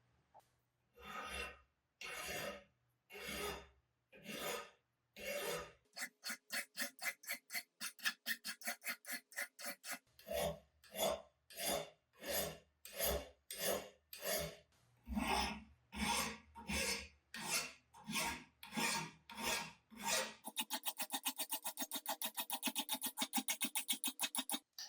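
A hand file scraping across the metal of an old hand plane in repeated strokes, removing rust and imperfections. The strokes come about once a second at first, quicken to short rapid strokes, slow again, and end in a fast flurry of short strokes.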